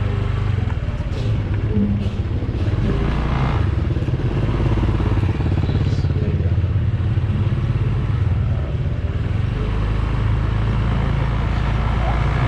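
Motor scooter engine running steadily while riding, a loud continuous low drone.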